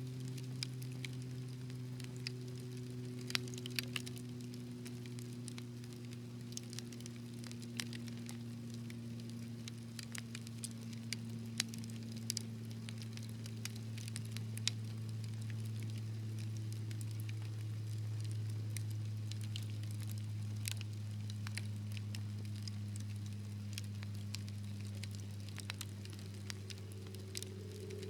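Wood fire crackling, with sharp pops scattered at irregular intervals over a steady low hum.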